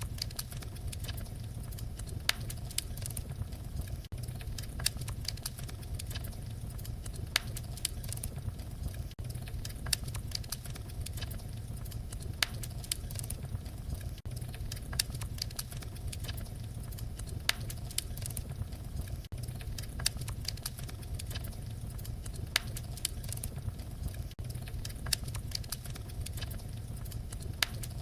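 Wood fire crackling: a steady low rumble of flames with sharp snaps and pops, a louder pop every two seconds or so.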